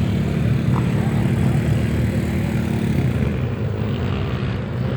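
Trail motorcycle engine running at a steady low speed, its note changing about three seconds in.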